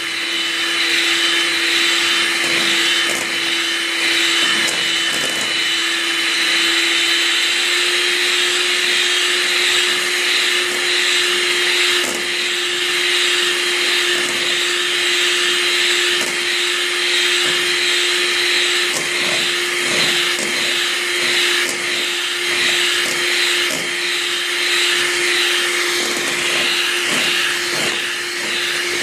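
Electric mixer running steadily, beating whole eggs and sugar for a sponge cake until they turn pale beige. A constant motor hum whose pitch steps up slightly about seven seconds in.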